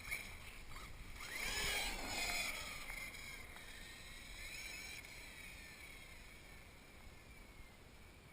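A 1/8-scale RC monster truck's motor whines at speed. It swells loudest a second or two in with a sweep in pitch as the truck passes, then fades steadily as it drives off.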